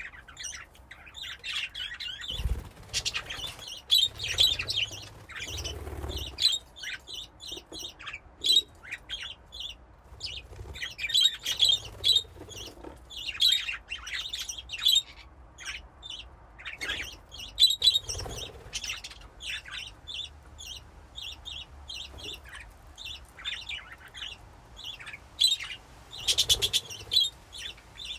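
A colony of budgies chirping and chattering without pause, many short high chirps overlapping, with a few dull low thumps along the way.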